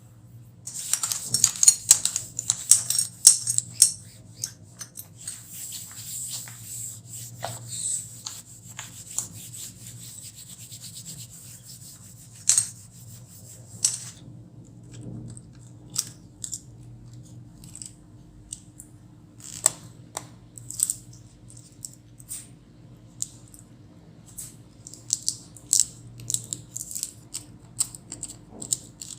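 Hands brushing and rubbing over laptop parts while cleaning them, with a dense scratchy stretch in the first few seconds, then scattered short strokes and sharp small clicks and taps.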